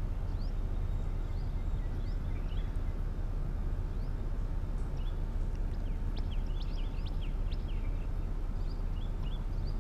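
Chopped onions, curry leaves and green chillies sizzling steadily in hot oil in a metal kadai as they are sautéed and stirred with a metal spoon, over a constant low hum. Short, high chirps come and go throughout.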